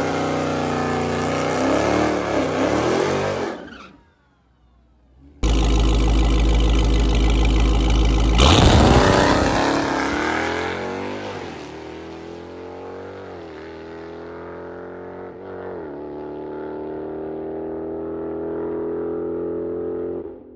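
Modern Mopar Hemi V8 cars at a drag strip: engines running loud, a brief cut to near silence, then a hard launch, the engine note climbing and dropping back at each gear shift as the car pulls away down the track and fades.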